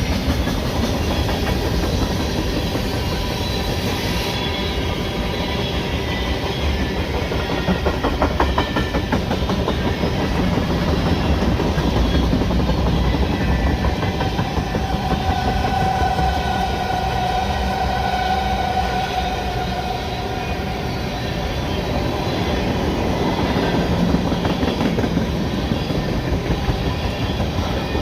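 CN freight train's cars rolling steadily past, with wheels clacking over the rail joints; a faint steady tone stands out for a few seconds in the middle.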